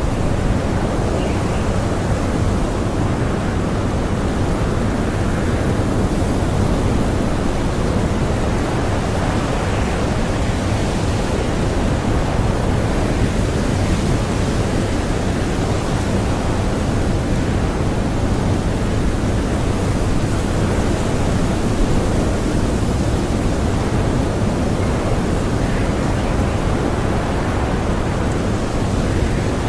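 Strong blizzard wind blowing steadily: a dense, even rush of noise, heaviest in the low end, with no let-up.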